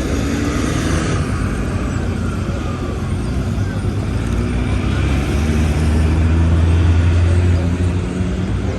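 City street traffic, with a vehicle engine running close by as a deep hum. The hum swells about five seconds in and eases off near the end.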